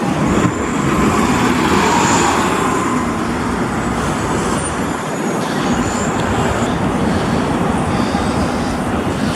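Loud, steady city street traffic with heavy vehicles passing.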